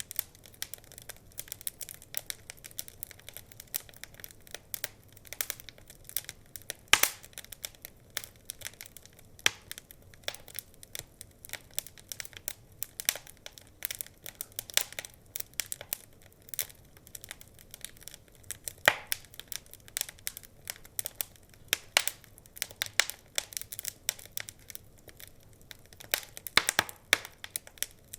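Wood fire crackling steadily, with many small irregular pops and a few louder snaps scattered through.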